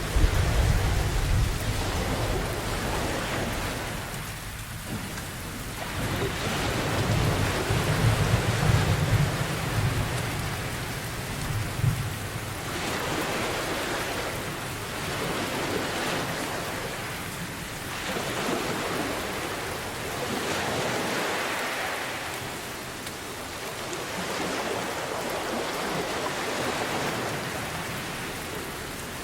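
Heavy steady rain with deep rolling thunder, one rumble at the very start and a longer one from about six to twelve seconds in. Under it, ocean surf swells and fades every few seconds.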